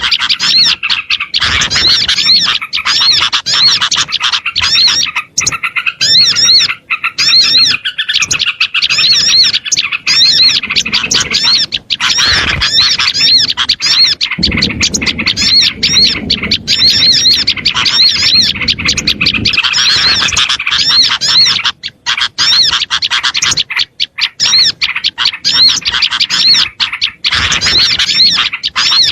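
Dense, busy chorus of small songbirds giving rapid, repeated chirps and excited calls without pause, a bird-lure recording meant to draw in small birds. A low rumble sits under the calls for about five seconds midway.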